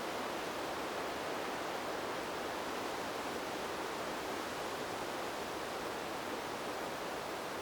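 Wind blowing through a bamboo grove: a steady, even rush of noise with no distinct gusts.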